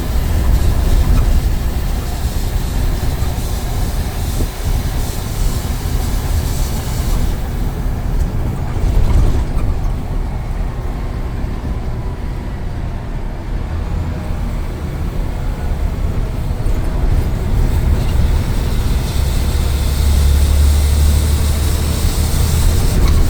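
Scania N94UD double-decker bus running, with a steady deep engine rumble and road noise. A higher hiss fades about a third of the way in and comes back near the end.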